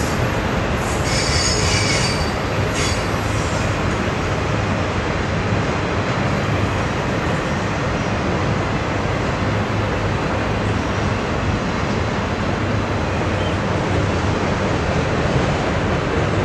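Autorack freight cars rolling past at close range: a steady rumble and clatter of steel wheels on the rail. A high metallic wheel squeal comes in about a second in and lasts a couple of seconds.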